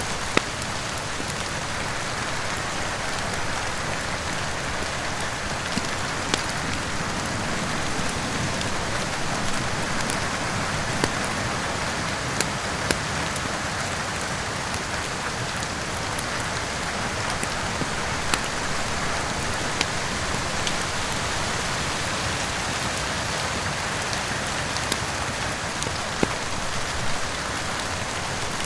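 Steady heavy rain, mixed with the crackle of a wood fire: sharp single pops every second or two over the even hiss of the rain.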